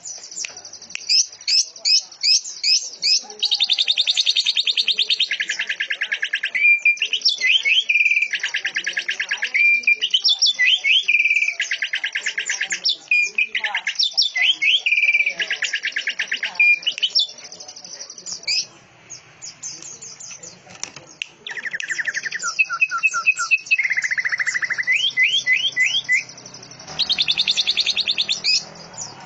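Cucak ijo (greater green leafbird) singing a canary-like song: quick high chirps run together with several long, fast trills of a second or two each, in the rapid-fire 'nembak' lovebird style.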